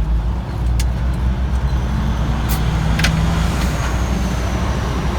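Kenworth T800 truck engine running steadily with a low drone as the truck drives along, with a few light clicks.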